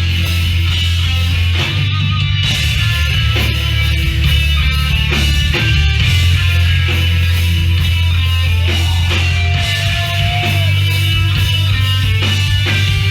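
Loud live hardcore/emo band playing, with distorted electric guitars, bass and drums.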